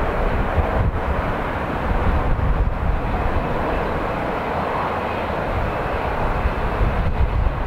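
Boeing 787-9 Dreamliner's jet engines making a steady rushing noise, with strong gusty wind buffeting the microphone as a heavy low rumble.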